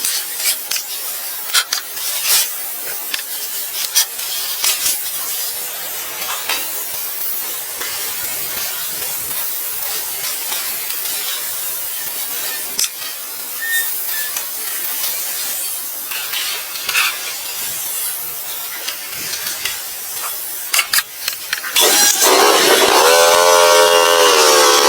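Steady hissing, rustling noise with scattered sharp clicks and knocks. About three seconds before the end, a small engine starts and runs with a steady hum, dipping slightly in pitch.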